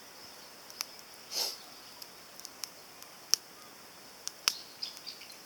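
Small wood fire crackling in a compact titanium fire grill: a few sharp, irregularly spaced pops and ticks, the loudest about three seconds in, over a faint steady hiss.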